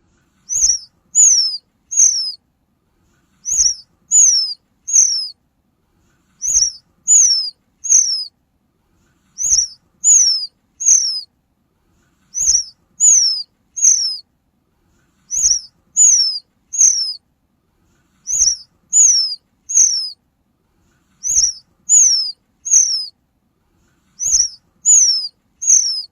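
High-pitched bird calls: groups of three quick whistles, each sliding down in pitch, repeated about every three seconds in an even, loop-like pattern, with a faint low thump at the start of each group.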